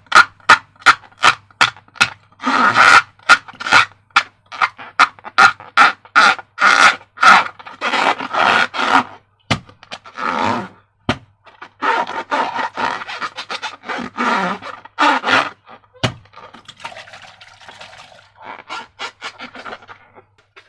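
Slime and rubber balloons being handled: a rapid, irregular run of wet squelching, rubbing and scraping noises with a few sharp clicks, thinning out over the last few seconds.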